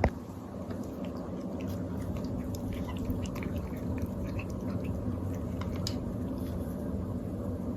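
A cat's small squeaky noises and soft clicks, short and scattered, over a steady low hum.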